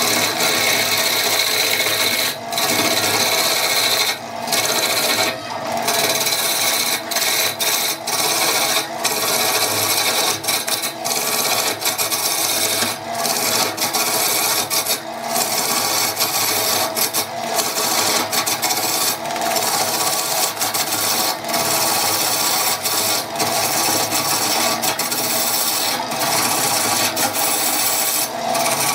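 Power tool working wood, a continuous rasping, abrasive noise with a steady motor tone, broken by short breaks every few seconds as the tool is lifted or eased off the wood.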